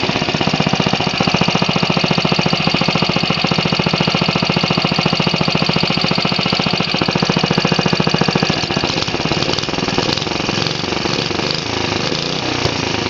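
1950s Clinton B1290 small single-cylinder engine running fast through its original muffler, firing steadily; about two-thirds through, the firing turns uneven and a little quieter. The carburetor is thought to need a little fine tuning.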